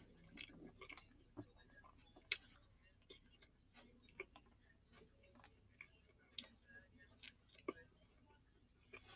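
A person chewing a mouthful of sandwich: faint, irregular mouth clicks and smacks.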